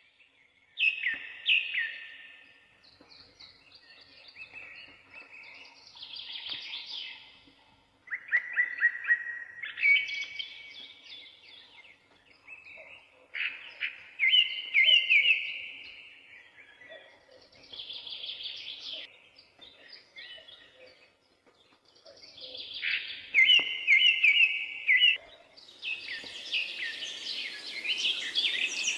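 A bird singing, in phrases of quick chirps and trills with short pauses between them. Near the end a steady hiss joins in.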